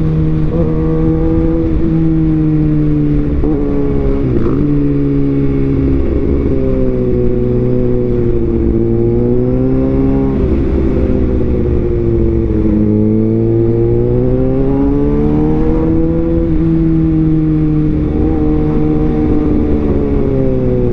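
Kawasaki Ninja ZX-6R's inline-four engine running under way, its note rising and falling gently with the throttle, with a few sudden drops in pitch. A steady rush of wind and road noise sits underneath.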